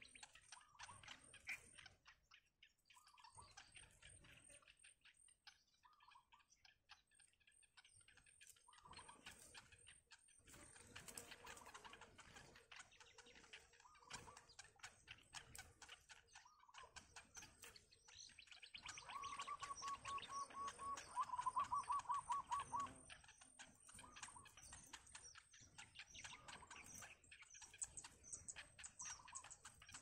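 Faint wild birdsong: many short high chirps and calls, with a rapid run of repeated notes, the loudest part, about two-thirds of the way through.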